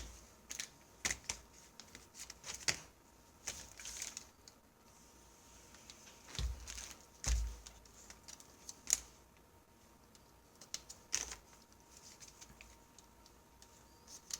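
Irregular light clicks and taps of LEGO pneumatic engine parts being handled on the test bench, with two dull bumps about six and seven seconds in and a faint air hiss in the first half.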